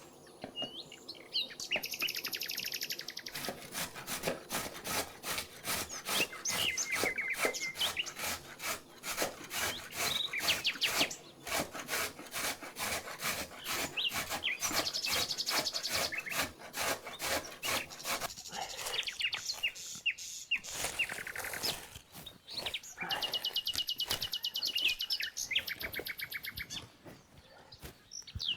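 Rapid, rhythmic scraping strokes, several a second, pausing briefly past the middle, with small birds chirping and trilling.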